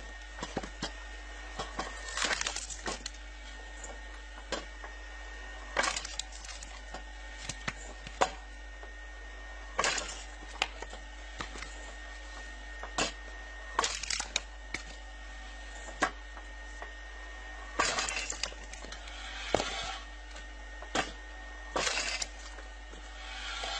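Irregular sharp clicks, knocks and cracks, a dozen or more spread unevenly over a steady low hum.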